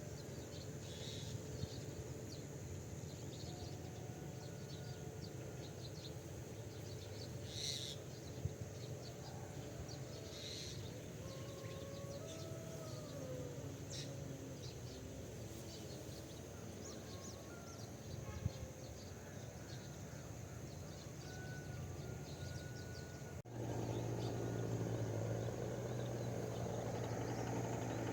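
Outdoor rural ambience: faint scattered bird chirps over a steady low hum. The hum jumps louder suddenly about five seconds before the end.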